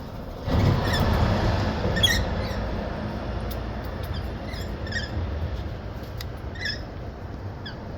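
Wild birds giving short, high chirps and squeaks every second or so, over a steady low background rumble that swells about half a second in.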